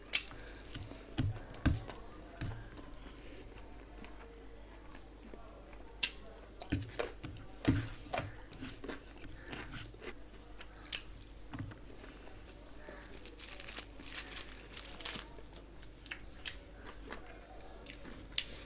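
Close-miked eating sounds: chewing and wet mouth smacks as rice and curry are eaten by hand, with irregular sharp clicks.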